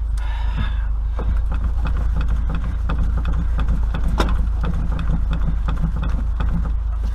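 Repeated knocks and creaks of an Austin Maxi's body as a man bounces up and down on the car to settle its suspension, with one sharp knock about four seconds in, over a steady low rumble.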